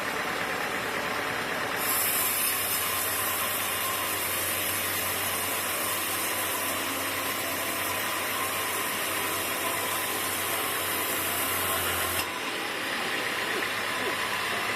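Sawmill machinery running steadily. About two seconds in, a loud high hiss with a low hum beneath it starts; it holds steady, then cuts off suddenly about ten seconds later.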